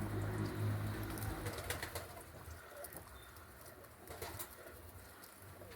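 Roller pigeons cooing softly, mostly in the first second and a half, then fading to a few faint ticks.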